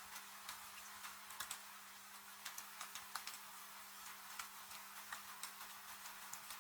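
Wood fire crackling, with irregular sharp pops several times a second over a steady hiss of rain, and a faint low hum underneath.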